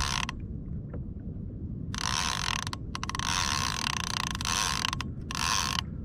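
Fishing reel's ratchet clicking rapidly in bursts as line is pulled off, the sign of a fish running with the live bait: a short burst at the start, a long one from about two to five seconds in, and a shorter one near the end. Under it is a steady low rumble of water and wind.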